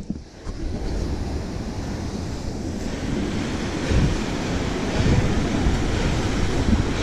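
Steady rush of river water pouring below a dam, with wind buffeting the microphone in low surges a few seconds in.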